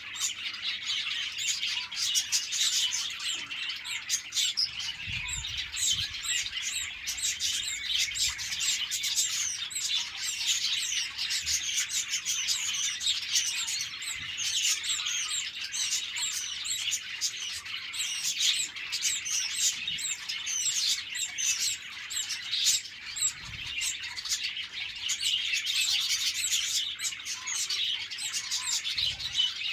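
A flock of budgerigars chirping, many birds at once, in a dense unbroken chatter of short high chirps.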